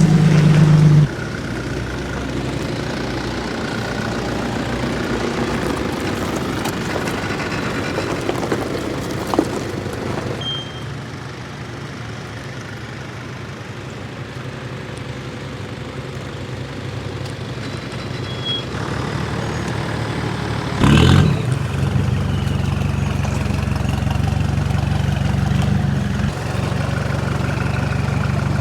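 Off-road 4x4 engine running steadily at idle, fading down after the first second and growing louder again later, with a short loud noise about 21 seconds in.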